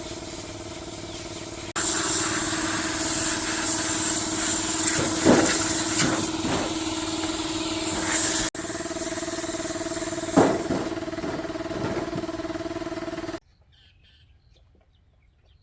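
Motorcycle engine running steadily, with two quick throttle blips that rise in pitch, heard in spliced clips. It cuts off abruptly near the end, leaving near silence.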